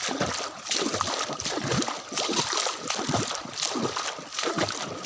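Footsteps wading through shallow floodwater: uneven splashing and sloshing, one step about every half second.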